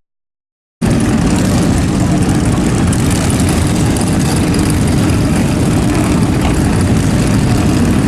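Steady low rumble of engines running, after a moment of dead silence at the start.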